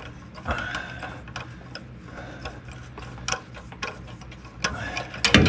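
Hand ratchet clicking in irregular runs as a stubborn engine bolt is backed out, with a louder clatter of clicks near the end.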